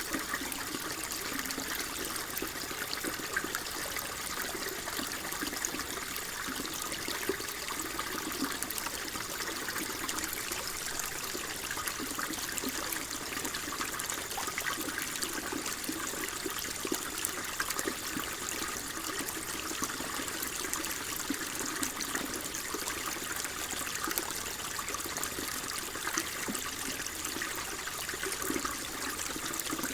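Flowing water trickling steadily, without a break.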